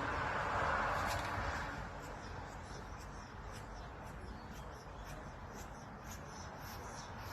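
Rapid, high-pitched bird chirps and squeaks coming thick and fast from about two seconds in, over a steady rushing background noise that eases off about two seconds in.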